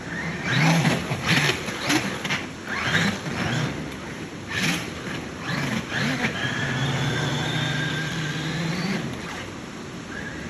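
Electric RC car driving through floodwater, its motor whining in short bursts with splashing spray, then holding a steady whine for a few seconds that rises near the end.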